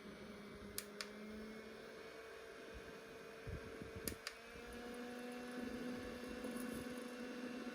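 Small electric motor of a mini USB fan humidifier humming steadily, its pitch rising slightly about halfway through, with a few sharp clicks.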